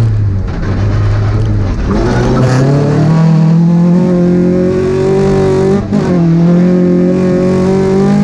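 Rally car engine heard from inside the cockpit, driven hard: the pitch climbs from about two seconds in and holds high, with one brief drop and recovery near six seconds, the shift into the next gear.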